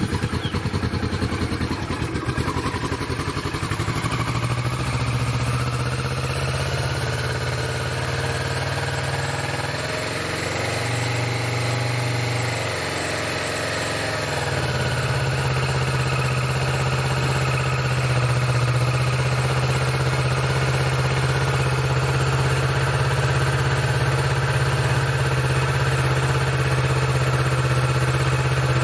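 2020 Kawasaki Vulcan S parallel-twin engine idling through its stock exhaust, just after a cold start. The idle wavers between about 9 and 15 seconds in, then settles to a steady note.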